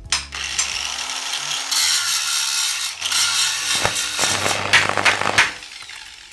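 Dense mechanical rasping and clicking, like a ratchet or gears, loudest through the middle and fading out near the end.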